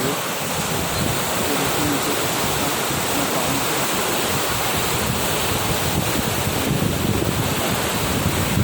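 Floodwater of the swollen Damodar river rushing past in a steady, unbroken noise, with wind on the microphone.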